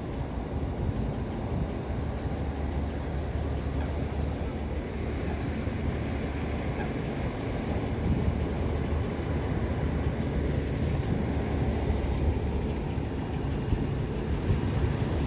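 Wind buffeting a phone microphone outdoors: a steady, fluttering low rumble with no distinct calls or events.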